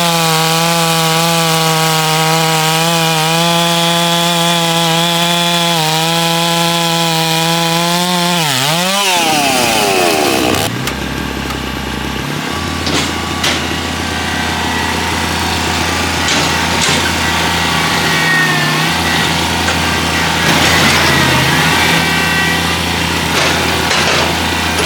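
Holzfforma G660 92cc two-stroke chainsaw running at full throttle through a log, holding a steady high note. About nine seconds in the revs fall away and the saw settles to a lower idle, with scattered knocks and clicks.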